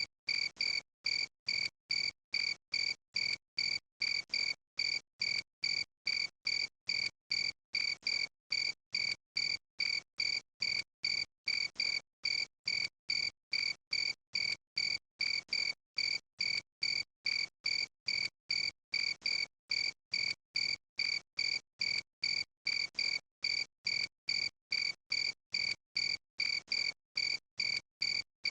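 Cricket chirping in a steady, even rhythm of about two short, high chirps a second.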